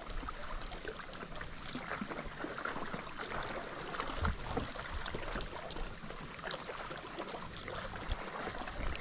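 Steady water patter and trickle with many small scattered ticks, and a couple of soft low thumps about four and eight seconds in.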